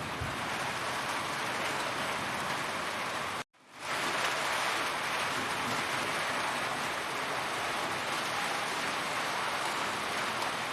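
Heavy rain falling steadily, a dense even hiss of drops. About three and a half seconds in it cuts out to silence for a moment, then fades quickly back in.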